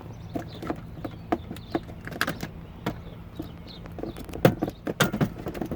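Irregular plastic clicks and knocks as a Lexus LX470 speedometer cluster is handled and pushed back into its dashboard opening, with the sharpest knocks about four and a half and five seconds in. A steady low hum runs underneath.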